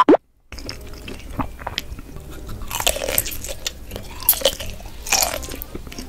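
Close-miked biting and chewing of a thick sausage on a wooden stick, with a few louder bites about three, four and five seconds in.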